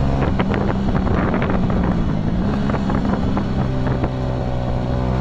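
Motorcycle engine running under way, its note shifting a little in pitch, with wind buffeting the microphone.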